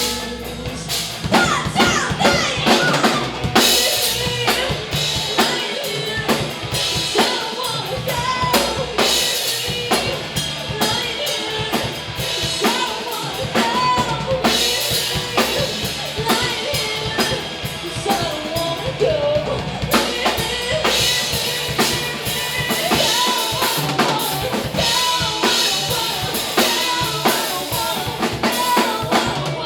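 Live rock band playing, with the drum kit to the fore: bass drum and snare hits under a melodic instrumental line.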